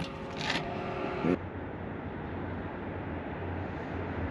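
Steady street background noise with a low traffic rumble, after a couple of brief voice sounds in the first second and a half.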